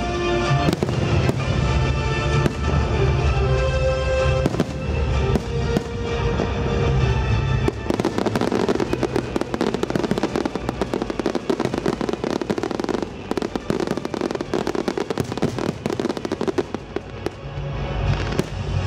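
Fireworks display over a music soundtrack. For about the first eight seconds a few single bangs go off over the music, then comes a long run of dense, rapid crackling and popping as the music's bass drops away. The music comes back near the end.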